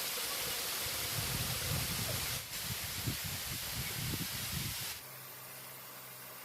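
Steady outdoor hiss with an uneven low rumble, dropping about five seconds in to a quieter steady hiss with a faint low hum.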